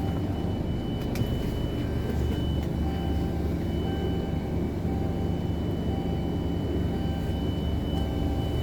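Scania OmniLink low-entry city bus's diesel engine idling, heard from inside the passenger cabin: a steady low hum with a thin steady high whine over it.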